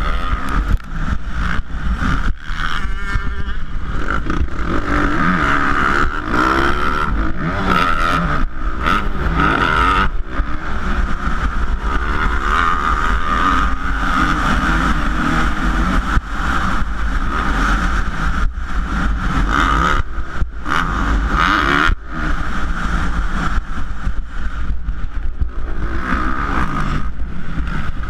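450-class motocross bike engine racing, revving up and falling back over and over with quick throttle chops between. A steady low rumble of wind on the microphone runs underneath.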